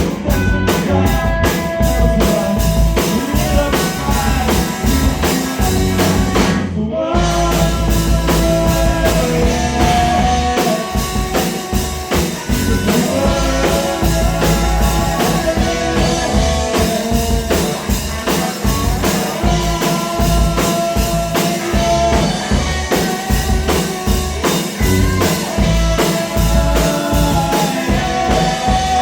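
Rock band music: drum kit keeping a steady beat under held guitar and keyboard-like notes, an instrumental passage of a song.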